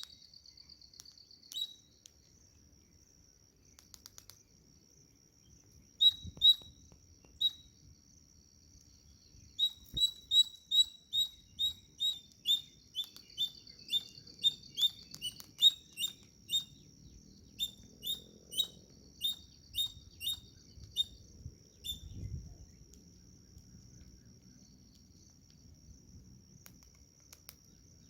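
Chipmunk chirping: sharp, high chirps, a few scattered at first, then a long run of about two a second through the middle before stopping. A faint steady high-pitched whine runs underneath.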